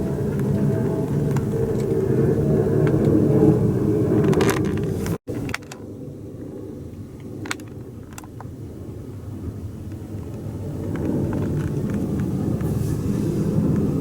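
Low, steady aircraft engine noise that cuts off abruptly about five seconds in, then comes back quieter and slowly builds louder again.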